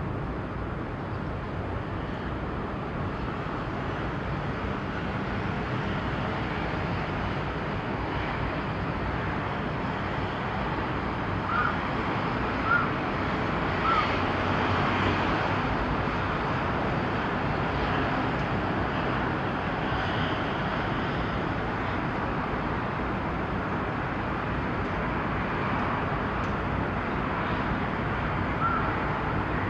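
Steady harbourside ambient noise: a low rumble and hiss of distant traffic and wind. A few short high chirps stand out about halfway through, and one more near the end.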